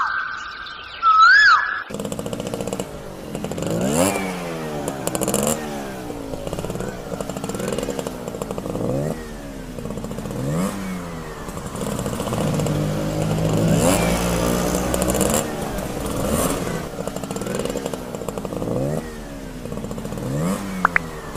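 A motor engine revving over and over, each rev rising in pitch, about every one to two seconds. A short warbling, siren-like tone opens the sound.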